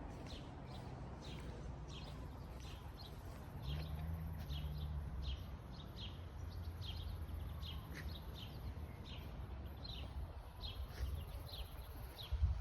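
Birds chirping: a run of short, high calls, each sliding down in pitch, about one or two a second, over a steady low rumble.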